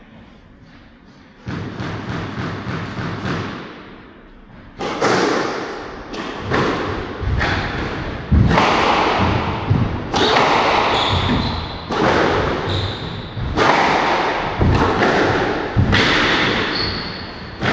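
Squash rally: the ball struck by rackets and hitting the court walls, sharp thuds about once a second starting after a short pause, with short high squeaks from players' shoes on the court floor.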